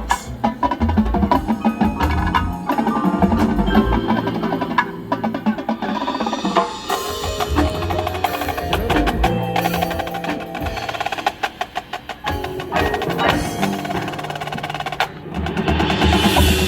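Marching band playing its field-show music, with the percussion section prominent: sharp, busy strikes over sustained pitched notes.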